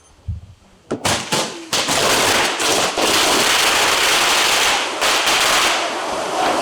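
Handmade set-piece firework going off: a few sharp cracks, then from about two seconds in a loud, continuous crackling hiss of burning powder.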